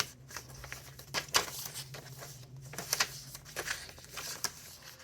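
Paper pages of a thick handmade junk journal being turned and handled, giving irregular crinkling rustles and soft paper clicks, the sharpest about a second and a half in.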